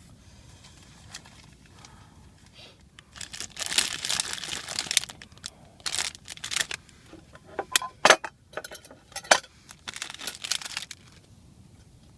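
Crinkling and rustling of something being handled, in irregular bursts over several seconds, with a few sharp clicks among them.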